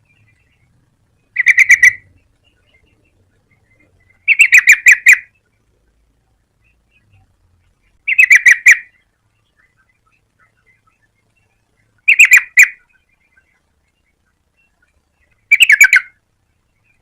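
Yellow-vented bulbul (trucukan) calling in five short bursts of rapid repeated notes, each under a second long and spaced about three to four seconds apart.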